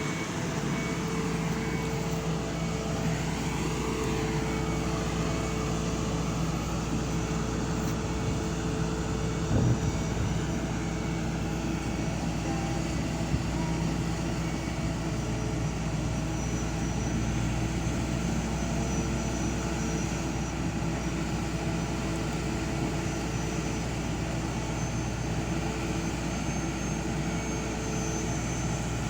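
An engine running steadily, a constant drone with several held tones and no change in speed.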